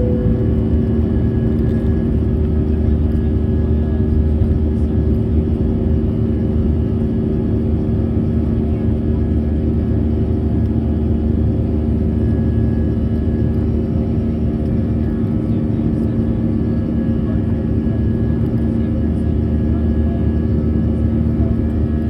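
Steady cabin noise inside an Airbus A320 in flight: a constant low roar of the jet engines and airflow, with a steady droning hum under it.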